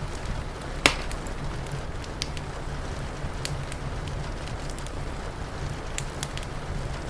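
Wood fire crackling, with scattered sharp snaps and one loud pop about a second in, over a steady hiss of rain and a low rumble.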